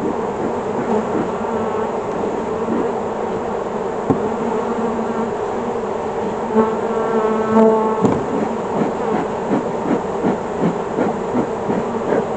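Honeybees buzzing in a steady hum around an opened hive, with a louder buzz about six to eight seconds in as a bee passes close to the microphone. Light knocks follow in the second half.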